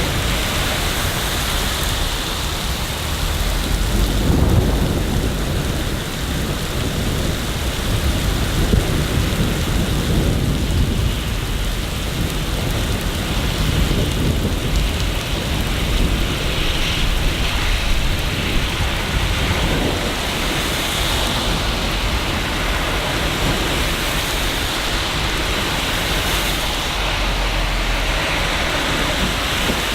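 Steady heavy rain falling, with low rumbles swelling now and then.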